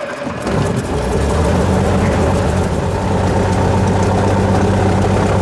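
Cessna 182's piston aircraft engine catching just after start-up and settling into a steady idle.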